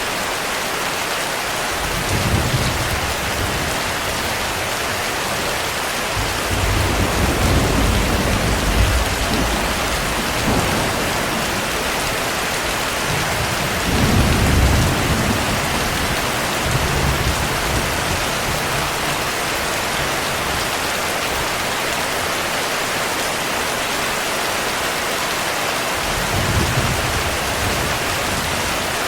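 Steady heavy rain falling on a surface, with low rolls of thunder rumbling under it several times, the longest lasting a few seconds about a third of the way in.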